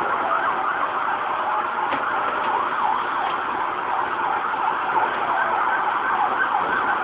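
Several emergency-vehicle sirens wailing at once, their rising and falling tones overlapping, heard through a mobile phone's microphone.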